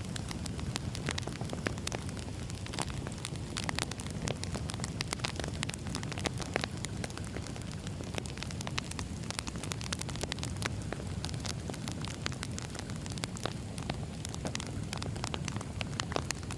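Burning firewood crackling and popping: many sharp, irregular pops over a steady low rumble of the flames.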